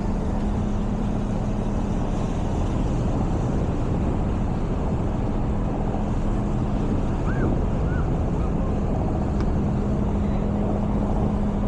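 Steady wind and riding noise on a bike-mounted camera's microphone with a low engine hum, which fades in the middle and returns near the end. Two short high chirps come about seven and eight seconds in.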